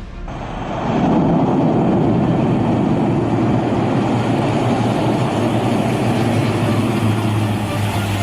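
Aircraft engine noise: a steady, loud engine sound with a low hum that swells over the first second and then holds.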